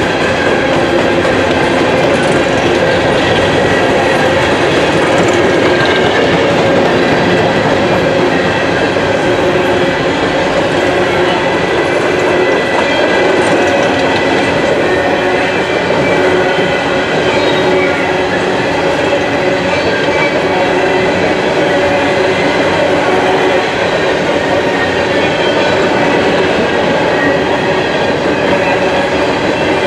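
Empty open coal hopper cars of a freight train rolling past: a steady rumble and rattle of steel wheels on the rails, with faint high wheel squeals now and then.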